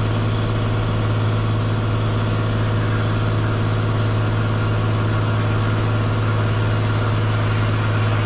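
Cessna 182 Skylane's piston engine and propeller droning steadily in flight, heard inside the cabin as a low, even hum with a stack of overtones.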